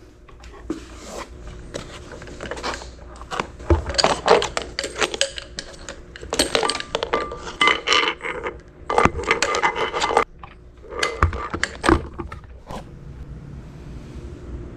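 Clattering and scraping of small hard parts being handled, an irregular run of clinks and knocks with brief metallic ringing.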